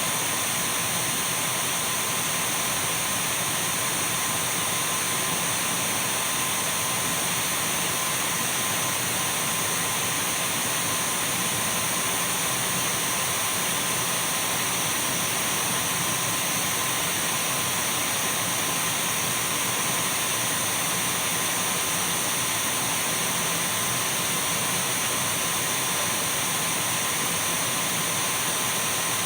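Dyson V12 cordless stick vacuum cleaner running steadily: a constant rush of air with a thin steady high whine and a fainter steady mid-pitched tone, unchanging throughout.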